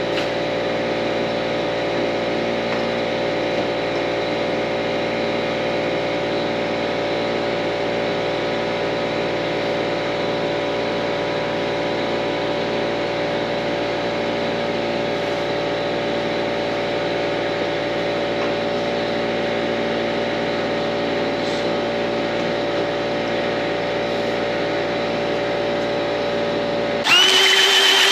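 Steady, unchanging machine hum made of several fixed tones with a faint regular pulse underneath. Near the end it cuts abruptly to a louder sound with a high whine.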